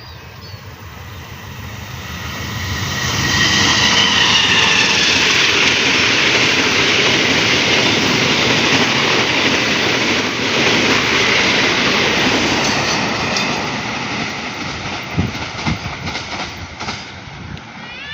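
A train passing close by: its rumble swells over the first few seconds, stays loud, then eases off, with a run of wheel clacks over the rail joints near the end.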